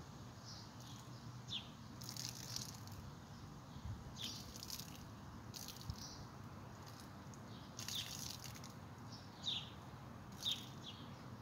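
Birds chirping short, sliding calls every second or two. Under them is a faint patter of rainwater poured from a small plastic bucket onto potted seedlings.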